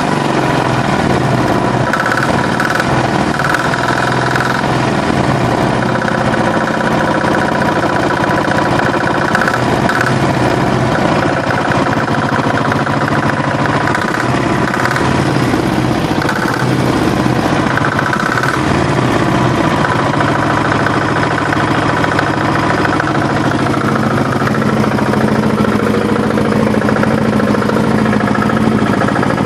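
Diesel engine fitted to a Muravey three-wheeled cargo scooter, running steadily at an even speed.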